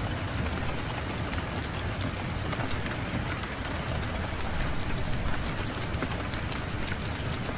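Fireplace fire crackling, with frequent small sharp pops over a steady low rush of wind.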